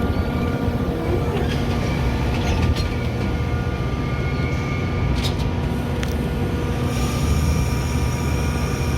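Metra commuter train running: a steady rumble with a faint steady whine, and a few sharp clicks about two and a half, five and six seconds in.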